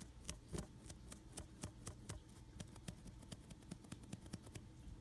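Faint, irregular scratchy ticks of a stiff paintbrush being dry-brushed over a Hydrocal plaster casting, several strokes a second.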